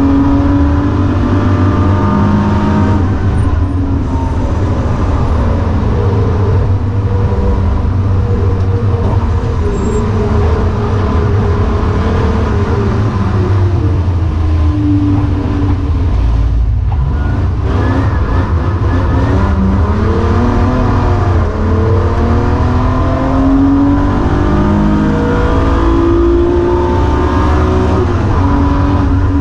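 BMW E36 M3's straight-six engine heard from inside the cabin, its pitch repeatedly climbing under acceleration and falling back through gear changes and braking, with a brief drop in the sound about 17 seconds in.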